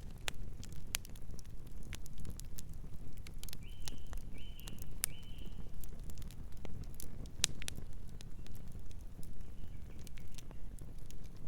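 Campfire crackling and popping with irregular sharp snaps over a low rumble of the burning wood. A night bird chirps softly three times in quick succession about halfway through.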